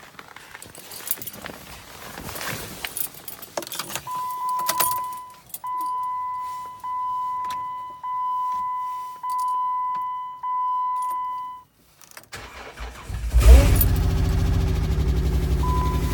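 Keys jangling and rustling, then the Jeep's dashboard warning chime, a steady tone pulsing about once a second for several seconds. About twelve seconds in, the 2010 Jeep Wrangler's Chrysler 3.8 L V6 cranks briefly and starts in sub-zero cold, then runs at a steady idle, with one more chime near the end.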